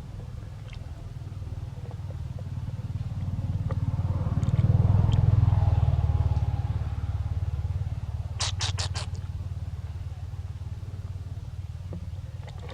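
A motor vehicle's engine passing by: a low rumble that builds to its loudest about five seconds in, then fades away. About three seconds later comes a quick run of about five high, sharp chirps.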